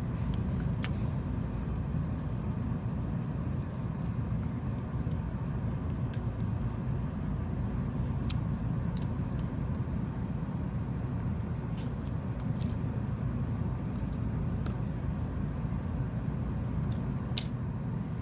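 Heat gun blowing steadily with a low rumble while it heats the phone's screen to soften the adhesive, with scattered light clicks and taps of tools against the phone.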